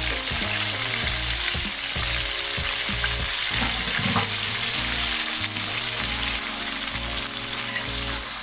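Blended red chili paste sizzling and spitting steadily in hot oil in a wok; near the end a spatula starts stirring it.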